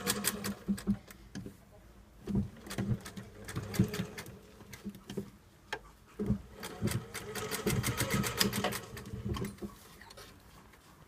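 Sewing machine stitching in several short runs of rapid needle strokes, stopping and starting, with the longest run in the second half.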